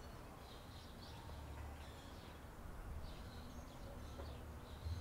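Faint outdoor ambience: small birds chirping now and then, high and brief, over a low rumble.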